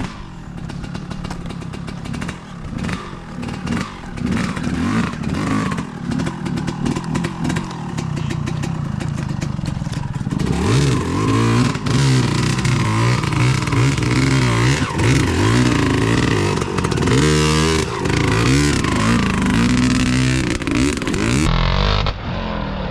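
Dirt bike engine running at low revs with many knocks and clatters from the ride, then revved harder in repeated rising and falling bursts from about halfway. Near the end the sound changes abruptly to a steadier, lower engine note.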